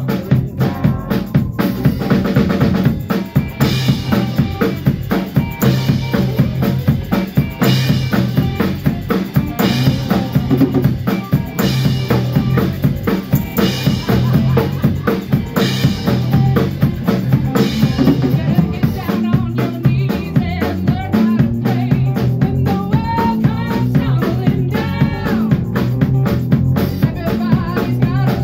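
A rock band playing an instrumental passage: a drum kit keeps a steady beat with bass drum and snare under sustained bass notes, with cymbal-like accents about every two seconds for most of the passage. In the last third a lead line with bending, wavering notes comes in over the rhythm.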